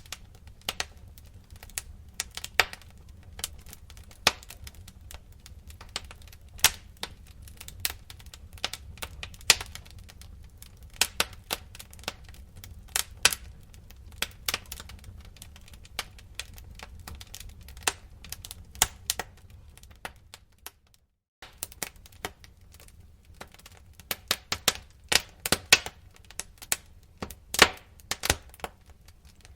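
Wood fire in a fireplace crackling, with irregular sharp pops and snaps over a steady low rumble of flames. The sound cuts out for a moment about two-thirds of the way through, then resumes.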